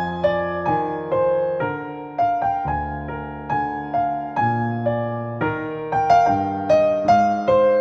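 Slow, gentle solo piano music, single notes struck about twice a second over sustained low chords, each note ringing and fading.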